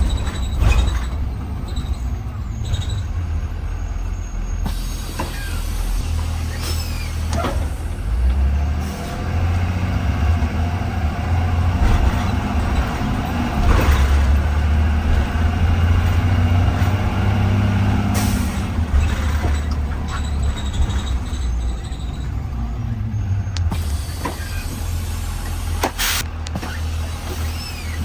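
2020 Blue Bird Vision school bus under way, heard from inside: a steady low engine and road rumble that swells for a while midway, with short hisses of the air brakes.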